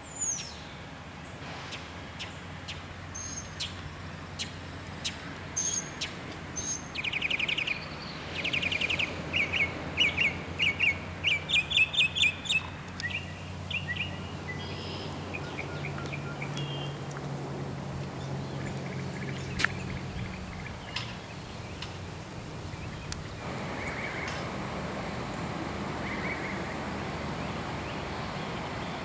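Outdoor songbirds singing and calling, with bursts of loud rapid trills about a third of the way in and sparser chirps afterwards, over a steady low hum.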